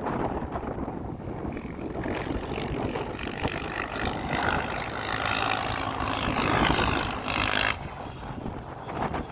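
Small-displacement motorcycle engines running, growing louder from about two seconds in and dropping off suddenly near the end.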